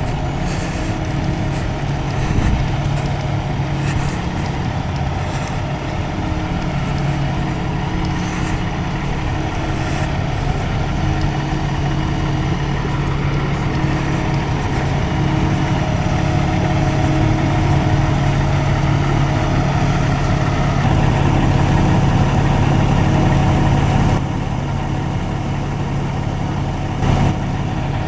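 Engine of a parked emergency vehicle idling steadily with a low, even hum.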